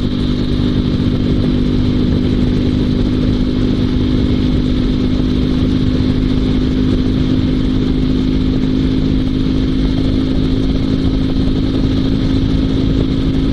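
Dnepr MT16 sidecar motorcycle's 650 cc flat-twin engine running at a steady pitch, working hard to pull the heavy outfit up a climb.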